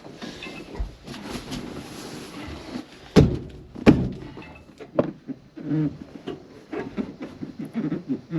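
Heavy thumps and knocking as a back seat is worked into a car body. There are two loud knocks, under a second apart, about three seconds in, with lighter clunks and rustling around them.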